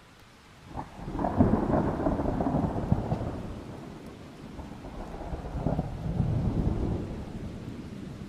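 A thunder crack about a second in rolls into a long low rumble, eases off, swells again past the middle and fades, over faint steady rain.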